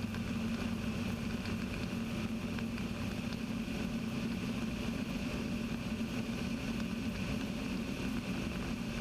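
Steady drone of a Kitfox IV's Rotax 582 two-stroke engine and propeller in cruise, heard from inside the cockpit.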